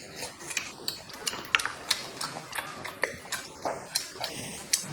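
Close-up eating sounds: irregular wet mouth clicks and smacks while chewing a mouthful of seafood.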